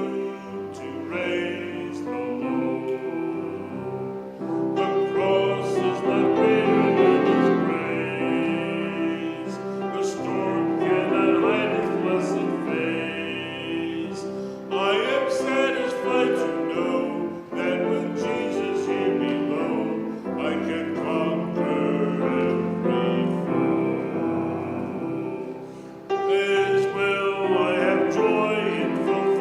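Church music: a sung piece with piano accompaniment, in long held phrases of a few seconds each.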